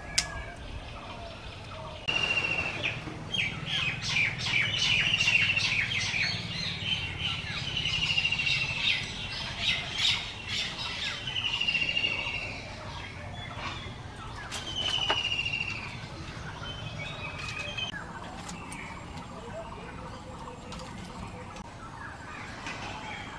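Birds squawking and calling, a short high call that falls slightly, repeated every second or two. Through the first half there is a run of sharp crackles and snaps.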